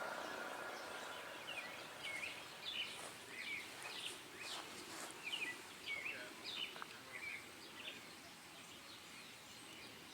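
Birds chirping in quick short rising and falling calls, thinning out near the end. The last of the Federal Model 2-240 siren's tone fades out in the first second.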